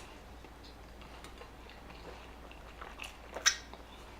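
Close-miked chewing of a burger: soft, wet mouth clicks, with one sharper smack about three and a half seconds in.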